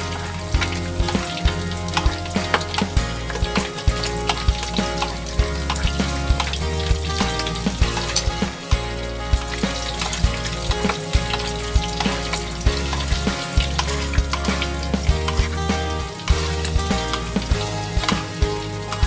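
Eggs sizzling and crackling as they fry in a pan, with a metal spoon stirring against the pan. Background music with a steady bass line plays under it.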